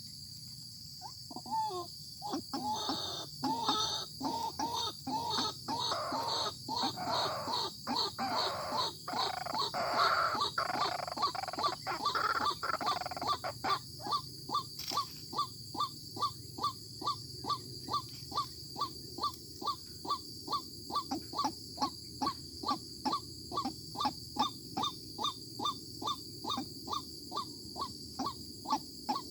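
White-breasted waterhen (ruak-ruak) calling loudly and over and over, a rhythmic croaking call about twice a second. The calls are dense and overlapping for the first half, then settle into an even beat.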